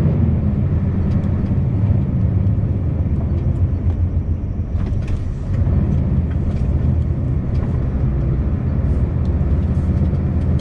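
Scania V8 truck engine running under way, a steady low rumble with road noise, easing off slightly for a moment about halfway through.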